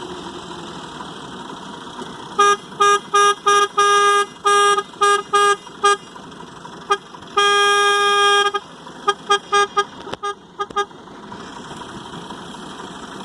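Vehicle horn honked in a rapid series of short toots, then one longer blast of about a second, then another run of short toots.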